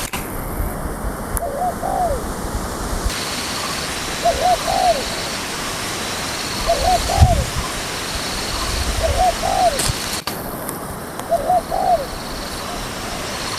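Spotted dove cooing its short repeated phrase, about once every two and a half seconds, five times, over a steady background hiss.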